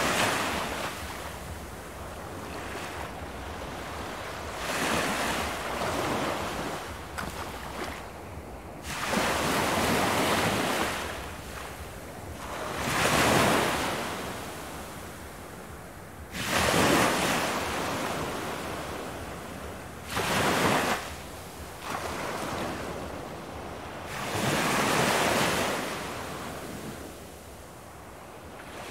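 Ocean waves breaking as surf, the rushing hiss swelling up and falling back every three to five seconds, with wind.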